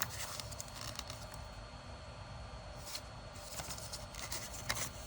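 Faint, scattered small clicks and rubbing as 3D-printed plastic test parts are handled.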